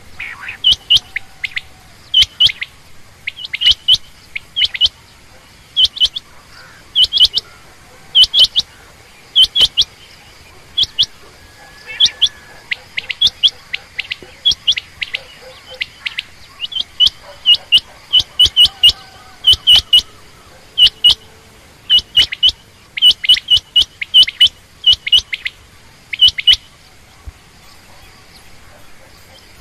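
A quail calling over and over: short, sharp, high calls in quick groups of two or three, repeated about every second. The calls stop for the last few seconds.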